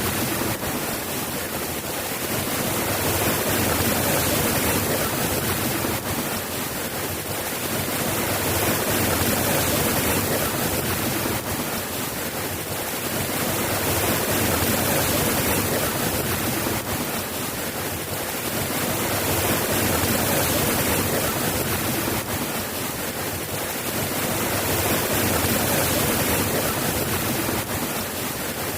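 Steady rain falling, a dense even hiss that swells and eases gently about every six seconds.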